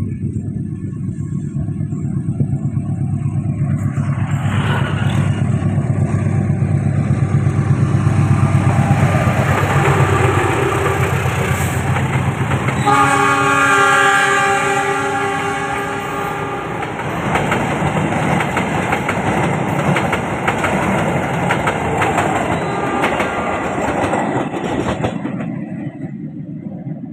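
Diesel-hauled passenger train passing at speed: a heavy rumble builds, then a long multi-tone horn blast sounds for about four seconds midway. After the horn comes the clatter of the carriages' wheels over the rails, fading away near the end.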